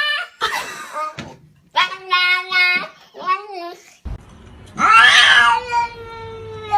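Domestic cat meowing in drawn-out, voice-like calls. After a cut about four seconds in, one long yowl lasting about two seconds.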